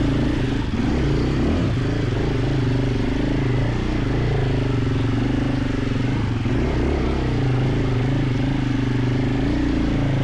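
KTM 450 EXC enduro motorcycle's single-cylinder four-stroke engine running at low, fairly steady revs, its pitch wavering slightly.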